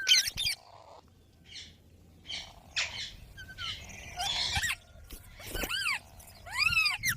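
Pet green parrot calling: a string of short, sharp calls with quiet gaps between them, the loudest near the end.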